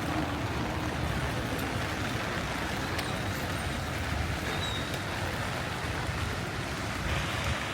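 Heavy rain falling, a steady hiss over a low rumble.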